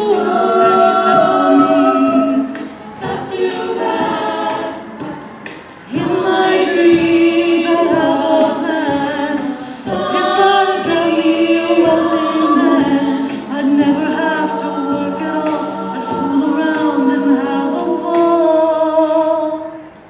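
Collegiate a cappella group singing a pop medley in close harmony with no instruments, sustained chords under a lead line. A vocal percussionist keeps a steady beat of high hi-hat-like ticks.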